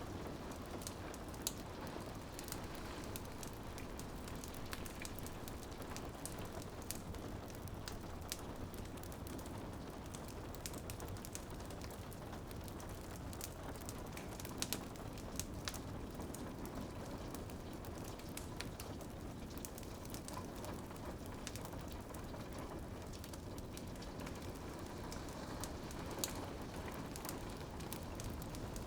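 Rain on a window pattering steadily, with a wood fire crackling over it in scattered sharp pops, a few louder ones about halfway through and near the end.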